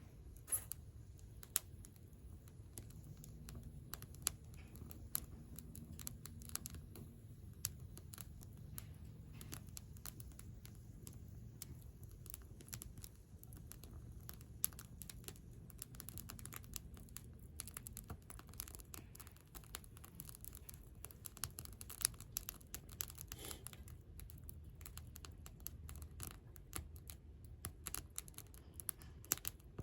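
Wood campfire crackling: irregular small snaps and pops, a few louder ones, over a low steady rumble.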